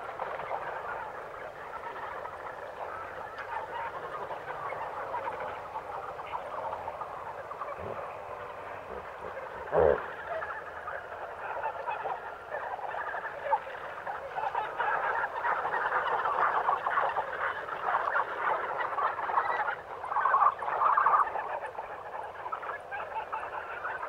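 African jungle dawn chorus: many birds calling at once in a dense, steady chatter. One loud call stands out about ten seconds in, and the chatter grows louder in the second half.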